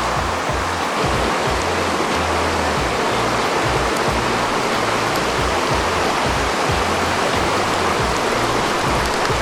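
Mountain stream rushing steadily, under background music with a low bassline.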